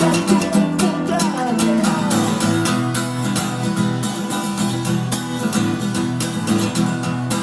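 Song music: an acoustic guitar strumming a steady rhythm through the instrumental ending, with a melodic line trailing off in the first two seconds.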